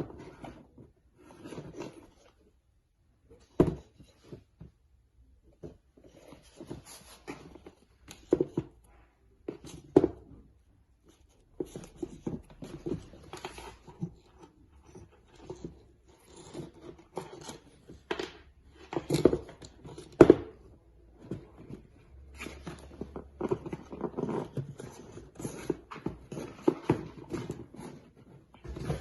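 Handling noise from a pair of sneakers being picked up, turned over and set down: irregular knocks, clicks and rustling, with a couple of louder knocks about two-thirds of the way in.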